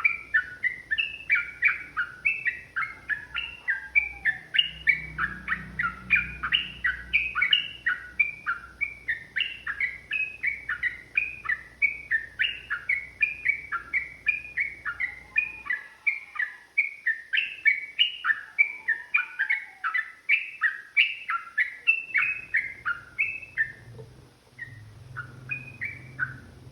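Yellow-vented bulbul (trucukan) singing a long, fast run of short chattering notes, about three a second. The run thins out to a few scattered notes near the end.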